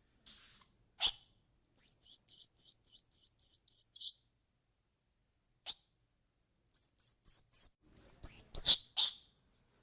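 Quick runs of short, very high-pitched animal chirps, about four or five a second, each call sliding up and back down. There are two runs, one starting about two seconds in and one near the end, with a short hiss or click now and then between them.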